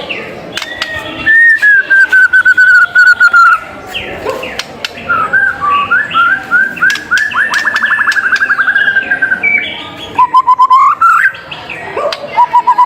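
White-rumped shama (murai batu) singing loud, varied whistled phrases: runs of quickly repeated notes, a fast trill in the middle and rising whistles near the end.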